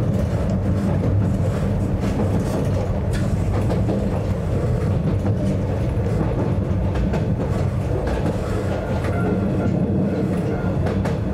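Narrow-gauge Yokkaichi Asunarou Railway train running, heard from inside the car: a steady low rumble with scattered short clicks from the wheels over the track.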